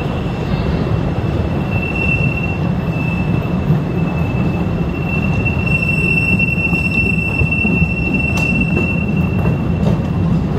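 Open-carriage cave tourist train running along its track with a steady low rumble and a thin, high wheel squeal that holds throughout and is loudest from about halfway through.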